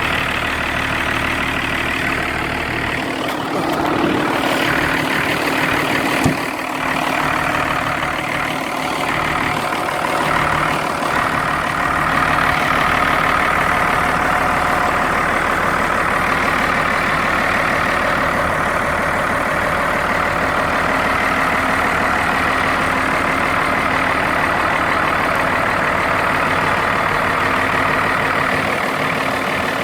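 Case IH Maxxum 5150 Plus diesel engine idling steadily, warming up a couple of minutes after a cold start in freezing weather. There is one sharp knock about six seconds in.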